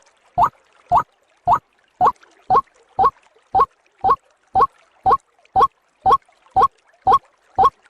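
White-breasted waterhen call, a short rising note repeated evenly about twice a second. It is a bird-trapping lure recording played on a loop.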